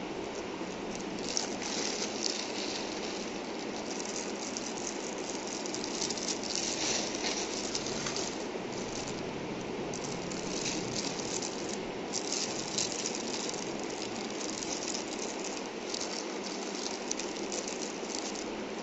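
Steady rain falling, an even hiss that runs on without a break, with irregular crackling on top.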